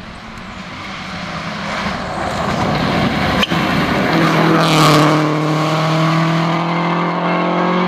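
Rally car approaching at speed, getting steadily louder, and passing close by about five seconds in, its engine note dropping as it goes past, then holding a steady note under load as it drives on.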